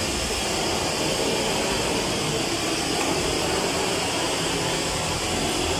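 Steady, unbroken rushing noise from a machine running in a motorcycle wheel-repair shop.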